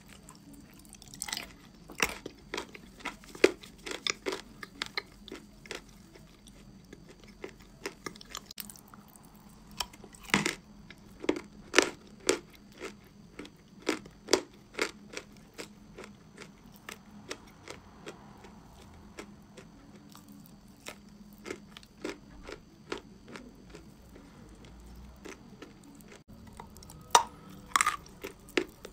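Chewing and biting of chalk coated in clay paste: irregular sharp crunches, several in quick succession at times, with quieter stretches between.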